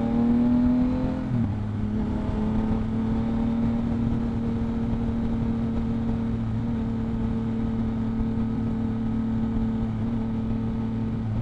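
2022 Yamaha MT-09's three-cylinder engine through a Two Brothers exhaust under way: the note climbs for about a second, dips slightly, then holds steady at a cruising pace.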